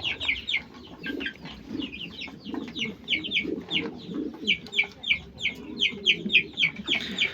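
Young Aseel chickens peeping: a quick run of short, high-pitched falling peeps, several a second, with softer lower clucking underneath.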